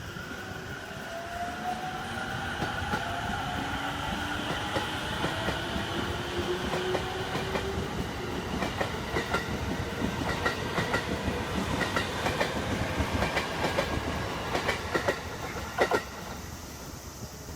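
Musashino Line electric train pulling away, its motor whine rising in pitch as it gathers speed. Then its wheels click over the rail joints, faster and louder as it goes, with a sharp knock near the end.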